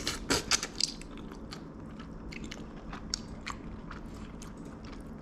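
A person eating ramen noodles: a few sharp, loud mouth and utensil noises in the first second, then quieter chewing with small scattered clicks.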